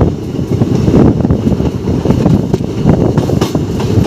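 Train running on the line: a heavy low rumble with scattered clicks from the wheels, and wind buffeting the microphone.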